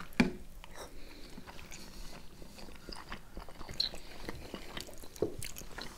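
Close-miked chewing and biting of soft boiled vareniki (dumplings with cherry and cottage cheese) eaten with sour cream, a scatter of small wet mouth clicks. There is one brief louder thump just after the start.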